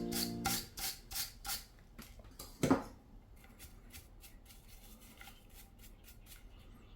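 Background music cuts off, leaving a series of quick, evenly spaced rubbing strokes, with one louder falling whoosh about two and a half seconds in and fainter, quicker strokes after it.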